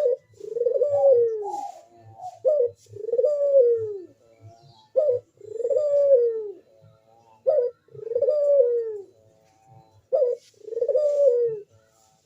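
A crossbred puter turtle dove cooing in full breeding condition. It gives five repeated calls, about one every two and a half seconds, each a short sharp note followed by a longer falling coo.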